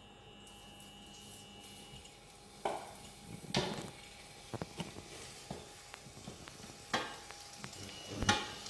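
Diced chicken breast going into hot sunflower oil in a frying pan, starting to sizzle, with scattered knocks of a utensil against the pan as the pieces are added and moved about.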